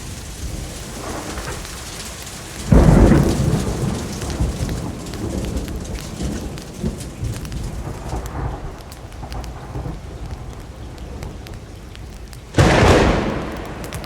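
Steady rain, with two thunderclaps: one about three seconds in and another near the end, each starting suddenly and fading away over a second or two.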